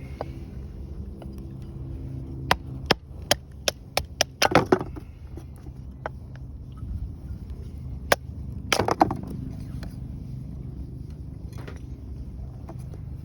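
Dry wood cracking and snapping in sharp, loud reports: a quick run of about eight between two and five seconds in, then a single crack and a short cluster around eight to nine seconds in, over a steady low rumble.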